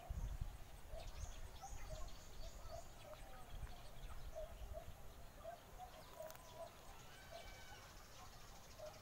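Birds calling in the open: a steady run of short, repeated calls with scattered high chirps above them. A low wind rumble on the microphone comes in the first few seconds.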